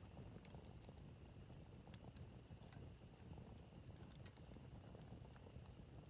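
Campfire crackling faintly: irregular sharp snaps and pops scattered over a low steady rumble.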